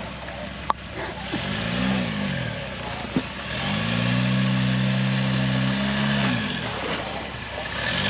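Off-road 4x4's engine revving up and down in short throttle pulls as it crawls over rocks, held at higher revs for a couple of seconds in the middle. Two sharp knocks come in the first few seconds.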